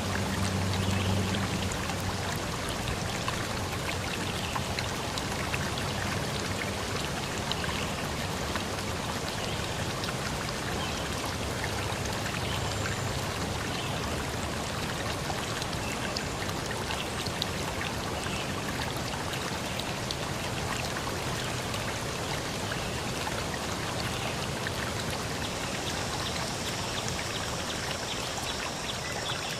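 River stream running over rocks: a steady rush of water with many small splashes and droplets through it.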